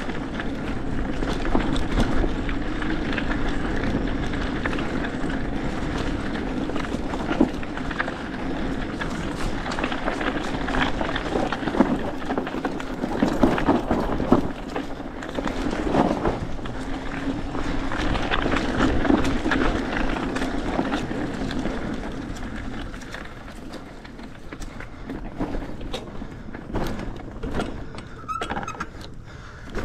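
Hardtail mountain bike ridden over a bumpy dirt trail: steady tyre rumble with frequent knocks and rattles as it rolls over bumps and roots, easing somewhat in the last third.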